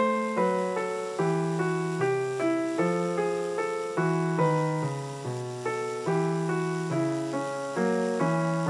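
Background piano music: chords and melody notes struck in a steady rhythm, each note fading before the next.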